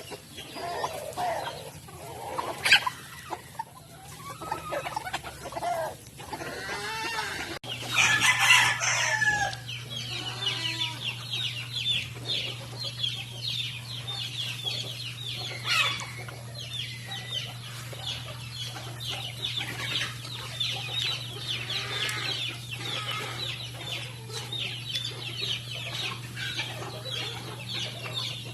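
A flock of chickens clucking and calling, with a loud rooster crow about eight seconds in. After that the flock keeps up a dense, steady chatter over a low hum.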